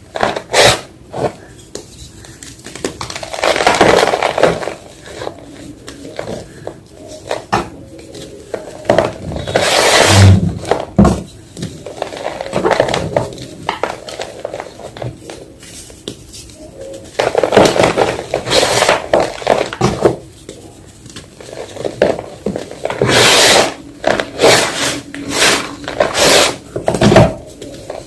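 Fresh white gym chalk being crushed, crunching and crumbling in irregular bursts with quieter gaps between.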